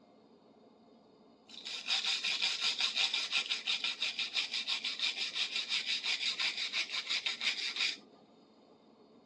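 A stiff brush scrubbed quickly back and forth over the metal of a large adjustable wrench, at about five strokes a second. It starts about a second and a half in and stops about a second before the end.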